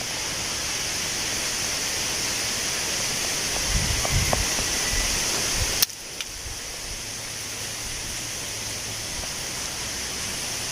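Wind blowing through tree leaves, a steady rustling hiss with a strong high-pitched edge. A few low thuds come around four seconds in, and a sharp click near six seconds after which the sound is a little quieter.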